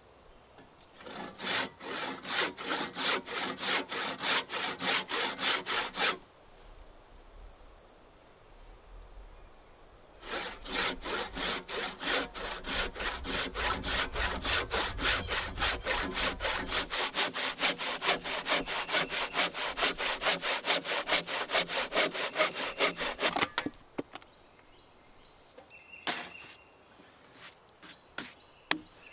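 Hand saw cutting through a large timber beam in fast, even back-and-forth strokes. It goes in two bouts: a short one of about five seconds, then after a pause a longer steady run of about thirteen seconds. A few light knocks follow near the end.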